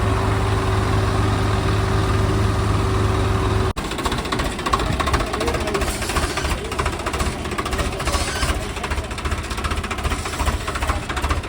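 Swaraj tractor's diesel engine running: a steady hum for the first few seconds, then, after an abrupt cut about four seconds in, a rougher, rapid clattering knock.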